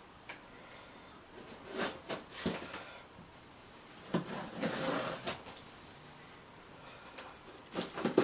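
A box being opened by hand: scattered knocks, scrapes and rustles of packaging being handled, with a longer ripping scrape about four to five seconds in.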